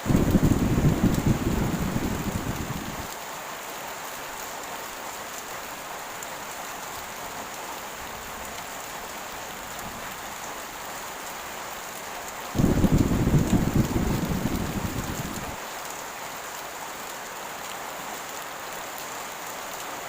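Steady heavy rain, with thunder rumbling twice: once at the start and again about twelve seconds in. Each rumble starts suddenly and dies away over about three seconds.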